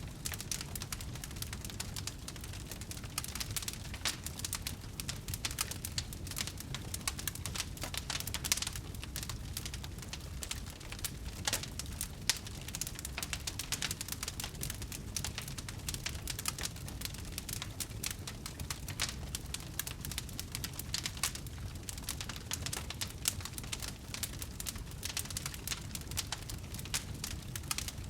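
Wood fire burning, with dense, irregular crackling and snapping over a steady low rumble of the flames.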